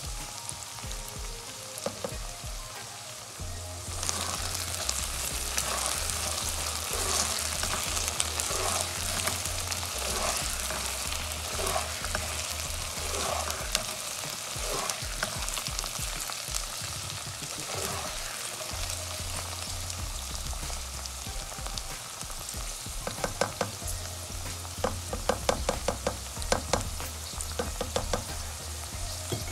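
Okra and sliced onions sizzling in oil in a nonstick pan while a spatula stirs them in regular strokes. The sizzle gets louder about four seconds in, and near the end there is a run of quick taps of the spatula against the pan.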